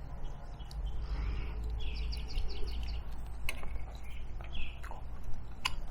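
Songbirds chirping, with a quick run of about six short notes around two seconds in and scattered chirps after, over a steady low rumble of outdoor background noise. A couple of sharp clicks fall in the second half.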